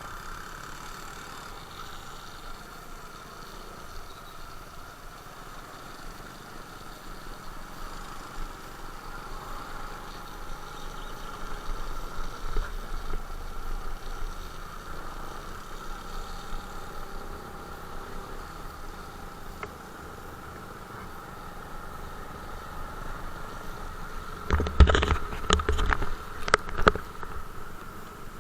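Motorcycle engine running steadily, with a few loud knocks or bumps against the microphone near the end.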